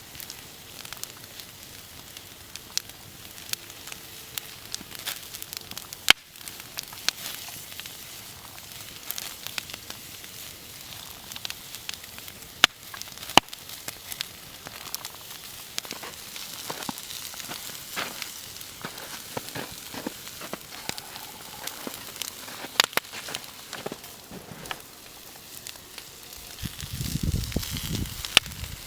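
Open wood fire crackling, with sharp pops scattered every second or two over a soft hiss. A brief low rumble comes near the end.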